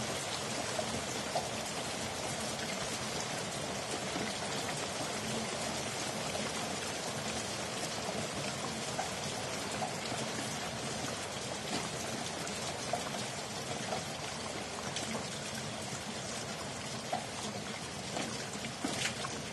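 Steady rainfall: an even hiss with scattered individual drops ticking a little louder now and then.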